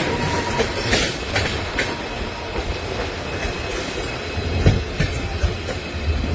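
Train running on the track: a steady rumble with irregular clacks of the wheels over the rail joints.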